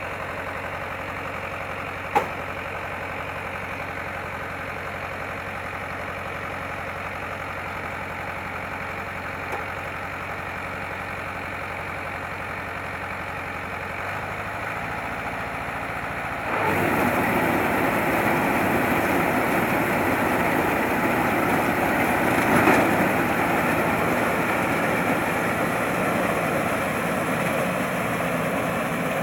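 Combine harvester's engine running steadily, then suddenly louder and fuller a little over halfway through, staying up from then on. A single sharp click about two seconds in.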